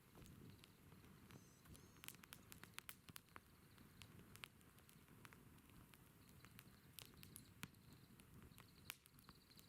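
Faint wood campfire crackling: quick, irregular snaps and pops over a soft low rumble.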